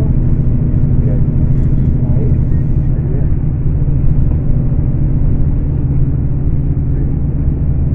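Scania K410 coach's 13-litre inline-six diesel running steadily, a deep even hum with no change in engine speed.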